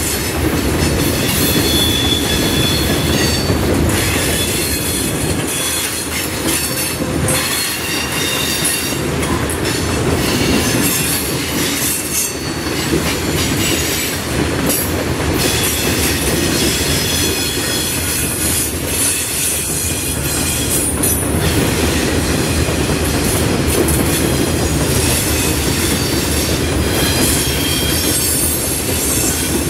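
Railroad cars rolling past on the track. Wheels squeal on and off in high thin tones, over a steady rumble and scattered clicks from the rail joints.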